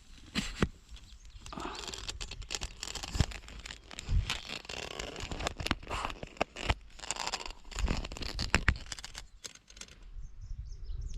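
Rustling and footsteps, with scattered sharp knocks and low thumps from a handheld camera being moved about.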